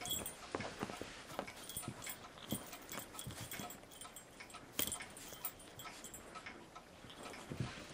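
Bichon Frisé puppy and kitten wrestling: scattered small knocks and scuffling, with one louder bump about five seconds in, and the puppy making small whimpering noises.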